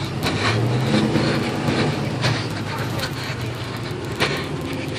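Engines of slow-moving vehicles, including a pickup truck rolling past close by: a steady low engine sound that swells briefly about a second in, with a sharp click about four seconds in.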